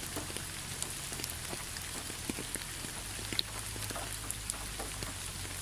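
Light rain falling: a steady hiss dotted with small scattered drop ticks, over a faint steady low hum.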